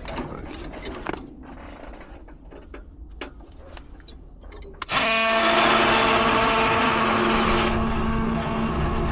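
A few seconds of small clicks and taps of handling, then an oscillating multi-tool starts abruptly and runs with a steady buzz, cutting through a copper refrigerant line at a heat pump's reversing valve. The upper hiss of the cut eases a little before the end.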